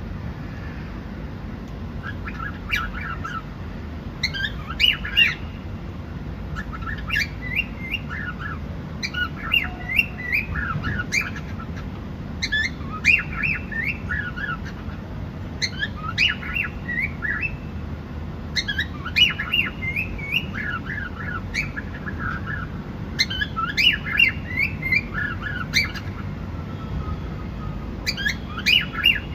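Cockatiel chirping and whistling in quick bursts of short notes, repeated every second or two over a steady low background noise.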